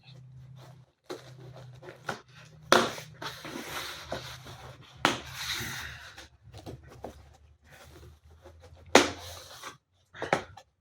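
A cardboard box being worked open by hand: irregular scraping and tearing of cardboard and packaging, with a few sharp knocks, loudest about nine seconds in, over a steady low hum.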